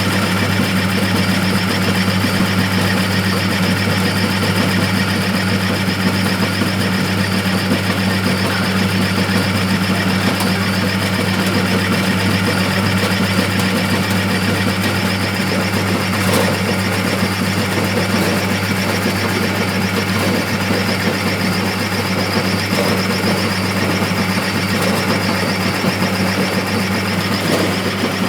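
Olive-scoring machine running steadily: a constant electric-motor hum under a dense, continuous mechanical rattle.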